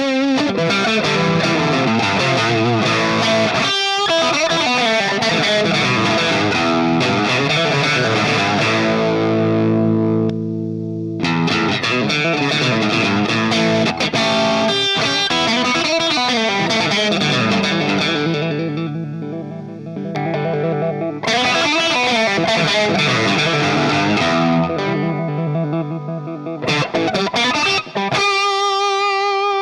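Electric guitar played through a DemonFX Jan Ray overdrive pedal, mixing chords and single-note lines. Chords are left to ring out about a third of the way in and again about two-thirds in, and a single held note sounds near the end.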